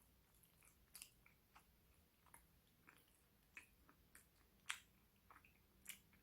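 Quiet close-up chewing of a chewy pistachio macaron, with soft, irregular wet mouth clicks, the loudest a little under five seconds in.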